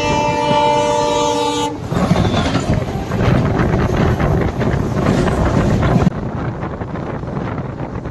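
Electric locomotive's multi-tone horn sounding a steady chord, cutting off about two seconds in. Then comes the loud clatter of an oncoming passenger train's coaches passing close by on the next track, which drops away suddenly about six seconds in, leaving the steadier running noise of the train being ridden.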